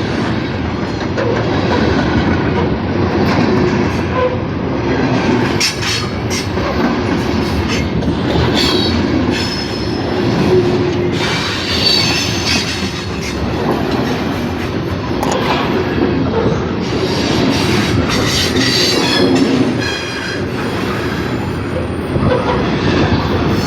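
Norfolk Southern grain train's covered hopper cars rolling past, with a steady heavy rumble and wheels clacking over rail joints. Short bouts of high-pitched wheel squeal come and go, mostly in the middle and again near the end.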